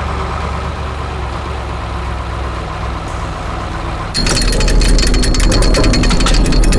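Heavy construction-vehicle engine idling with a steady low rumble; about four seconds in, a louder rapid mechanical rattling like a jackhammer or power tool starts over it.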